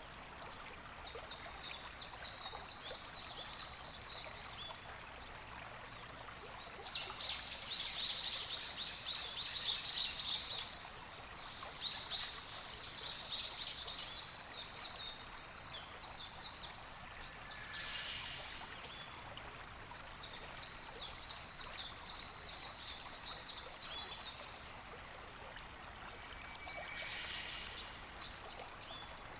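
Wild birds singing in repeated bouts of rapid, high chirping notes, each bout lasting a few seconds, with a few brief very high whistles in between, over a steady outdoor background hiss.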